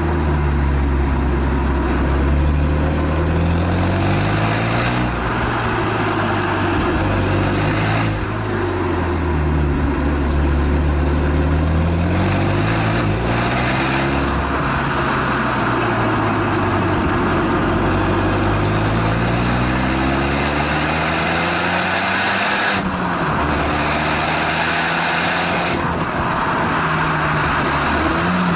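Exhaust note of a 2016 Renault Mégane Estate GT220 lapping a circuit, heard from the rear. The engine climbs in pitch under acceleration, drops sharply at upshifts and winds down under braking, several times over, with road and wind noise beneath.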